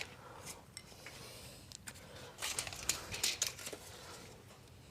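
Faint, scattered clicks and light taps from handling a tape measure and tools on a fibre cement weatherboard while it is measured, with a small cluster of them a little over halfway through.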